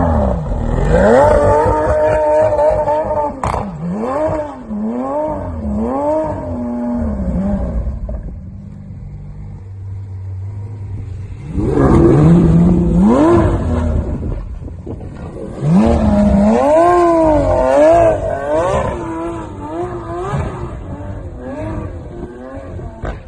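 Lamborghini Aventador SVJ's naturally aspirated V12 being revved in a series of quick blips, the pitch rising and falling with each one. Around the middle it settles to a steady, lower idle before being revved again.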